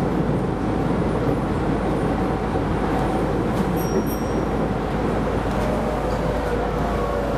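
Keisei Line rapid electric train running, heard from inside the car: a steady rumble of wheels on rail with a faint motor whine, its pitch dipping slightly near the end.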